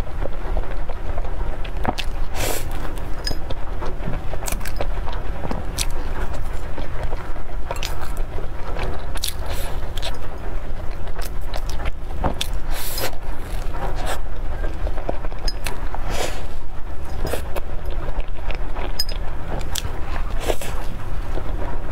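Close-miked chewing and mouth sounds of someone eating a cream-filled bun, with irregular wet clicks and smacks over a steady low hum.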